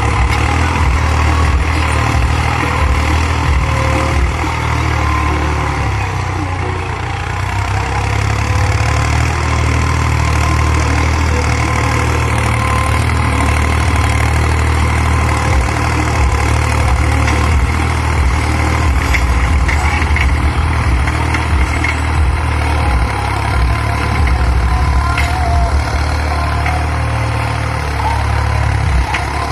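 New Holland 3630 tractor's diesel engine running steadily.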